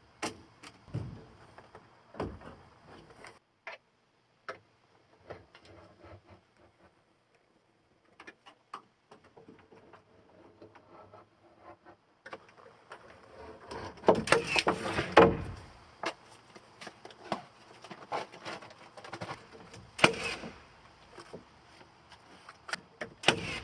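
Scattered wooden knocks and clatter of lumber being handled during carpentry, sparse at first with a brief quiet spell, then busier from about halfway through, with a few louder knocks.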